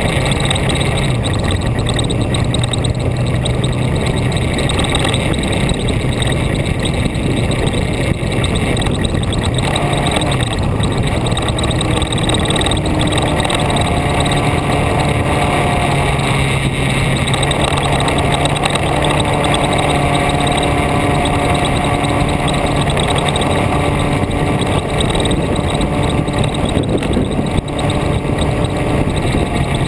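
Vehicle engine running continuously under steady road and wind noise, its pitch shifting slightly now and then as the speed changes.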